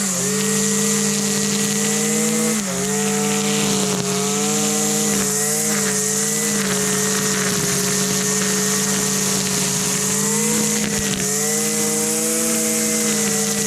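Two-stroke string trimmer engine running steadily at high speed, with a few brief dips in pitch along the way.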